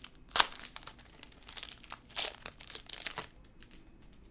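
Trading card packs and cards being handled: crinkling wrapper and rustling cards in a quick run of sharp rustles that stops about three seconds in.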